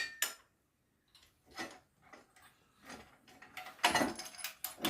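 Scattered clinks and knocks of small metal parts and tools being handled, sparse at first and coming thick and fast near the end.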